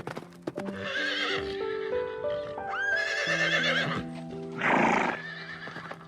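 A horse whinnying twice, each call wavering in pitch, with a short noisy burst about five seconds in, over background music of slow, stepped sustained notes.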